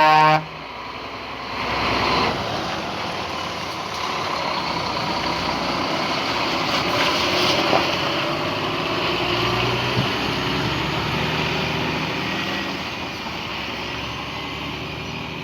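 A heavy truck running, with a steady wash of engine and road noise whose low engine tone shifts a little and swells about two seconds in.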